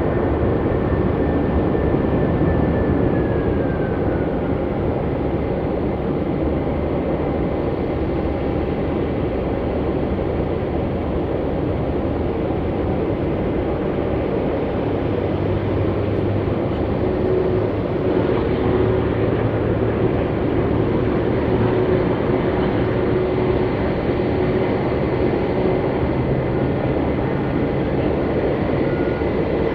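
Jet airliner engines running steadily, a broad rushing noise with a high turbine whine that falls in pitch a few seconds in, and lower engine tones coming in around the middle.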